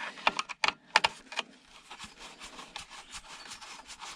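Scrap parts and tools being handled on a workbench: a quick run of clicks and knocks in the first second and a half, the loudest about a second in, then soft rubbing and rustling.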